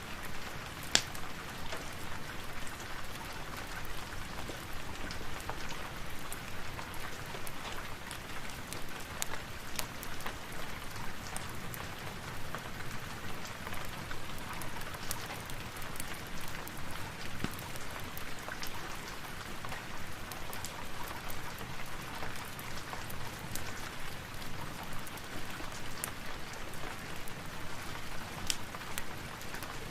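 Steady rain with scattered sharp crackles from a wood fire; one louder crack about a second in.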